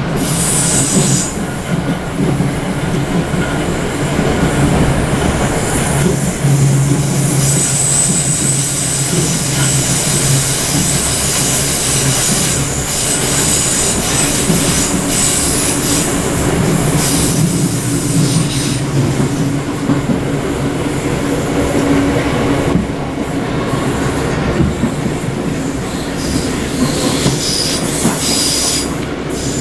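Inside the passenger saloon of a British Rail Class 455 electric multiple unit running on the line: a steady rumble of wheels on rail under a low motor hum, with high-pitched wheel squeal coming and going.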